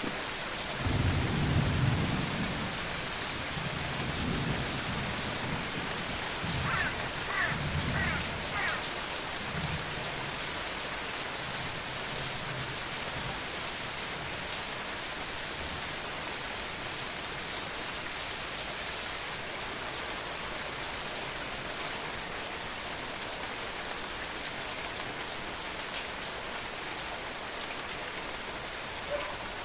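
Steady rain falling, with rolling thunder rumbling low through the first half, strongest about a second in and dying away by about thirteen seconds; after that only the steady rain.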